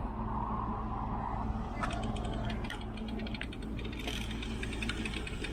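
Bicycle freewheel hub ticking as the bike rolls without pedalling: rapid ratchet clicks starting about two seconds in, over a steady low rumble of wind and traffic.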